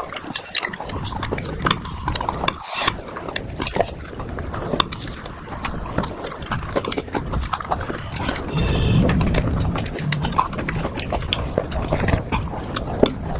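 Close-miked eating sounds: wet chewing and lip smacking, an irregular run of clicks, growing louder about nine seconds in.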